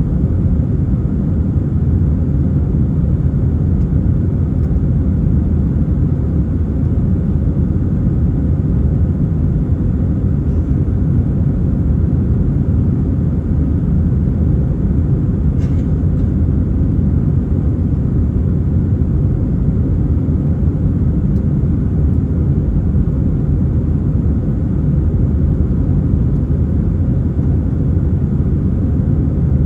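Steady low rumble of an Airbus A320 in flight: engine and airflow noise, even and unchanging.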